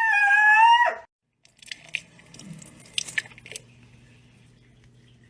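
A dog's drawn-out howl ends about a second in, then after a short break come a few crunching, chewing-like clicks over a faint steady hum.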